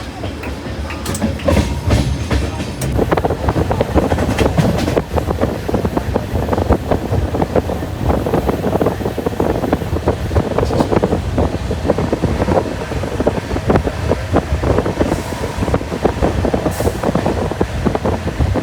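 Passenger train on the move: a steady rumble with a rapid, continuous clatter of coach wheels over the rails. It grows a little louder about a second and a half in.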